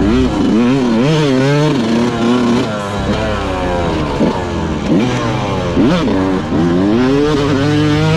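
Yamaha YZ125 two-stroke motocross bike engine revving hard, its pitch repeatedly rising and dropping as the throttle is worked and the rider shifts through the gears.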